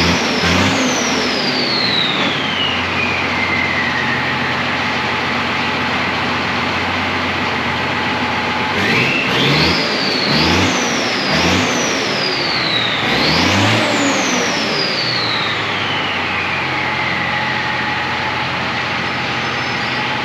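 Deuce-and-a-half truck's diesel engine with a Schweitzer Whistler turbocharger, blipped once near the start and then four times in quick succession about halfway through. A high whistle climbs with each blip and slides down slowly as the engine settles back to idle.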